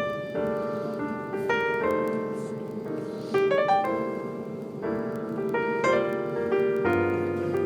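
Background piano music: a slow run of struck chords and single notes, each ringing on.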